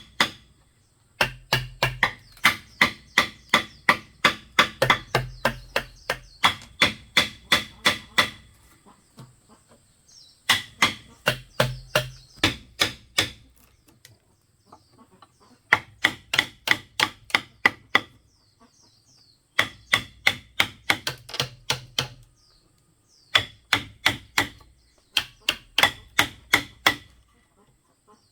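Repeated tool strikes on bamboo, about three a second, in runs of several seconds broken by short pauses, each strike with a bright ringing tone.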